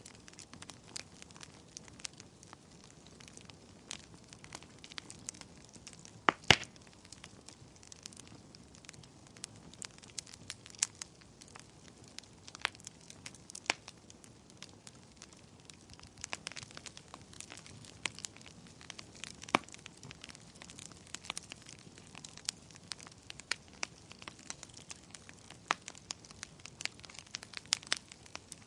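Wood fire burning in a fireplace: irregular sharp crackles and pops over a soft steady hiss, with one louder pop about six and a half seconds in.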